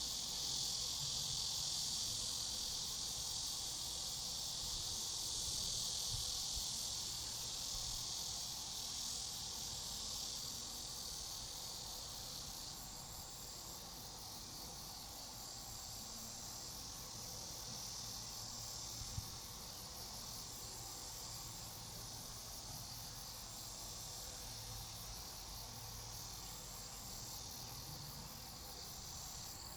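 A chorus of crickets and other grass insects chirring in a dense, steady, high-pitched band. About halfway through it thins to a lighter chorus of repeated short trills, and there is a single faint click near two-thirds of the way.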